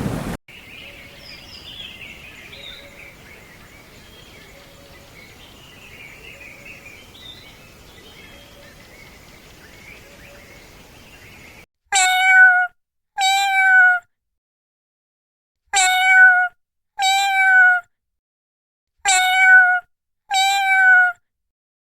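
A cat meowing repeatedly: loud drawn-out meows, each under a second with a falling end, coming in pairs, starting about halfway through. Before the meows there is only a faint high background sound.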